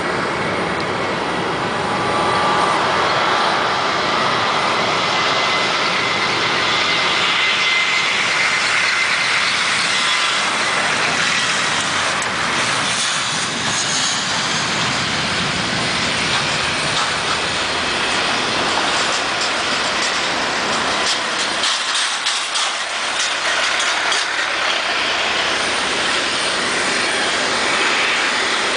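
Boeing 737-700's CFM56-7B jet engines at takeoff power: a loud, steady rush of jet noise, with a high whine over it for the first ten seconds or so.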